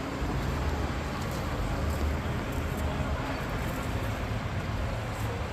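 Vehicle engine running steadily at idle, a constant low rumble under outdoor background noise.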